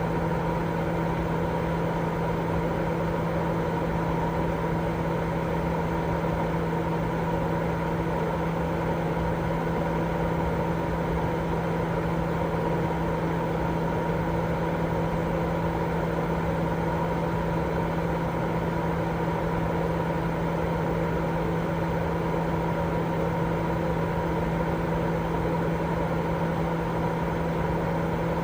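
Continuous white noise for baby sleep: a steady, unchanging rush weighted toward the low end, with a constant low hum running through it.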